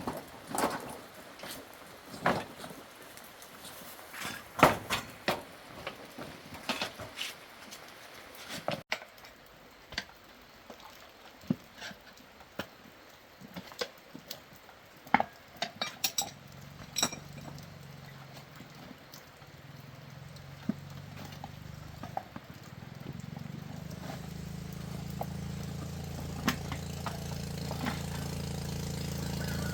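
Metal tools clinking and knocking against metal parts, many sharp strikes over the first several seconds and fewer after a break. Over the second half an engine starts running, growing steadily louder toward the end.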